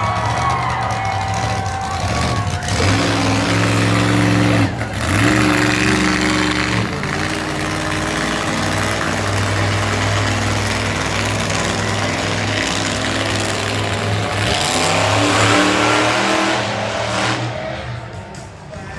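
Monster truck engine running hard and revving, its pitch rising and falling with the throttle. There is a brief let-off about five seconds in, and it eases off near the end.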